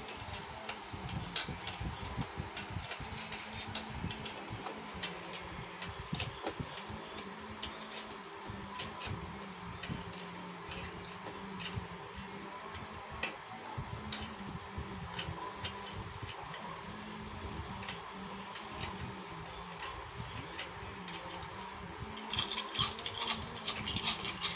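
Scattered light metallic clicks and taps of tools and small carburettor parts being handled during refitting of a motorcycle carburettor, with a busier run of clinking near the end, over a steady background hum.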